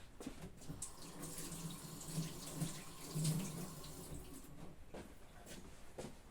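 Kitchen tap running into a sink for a few seconds, loudest about three seconds in, with a few light clicks and knocks.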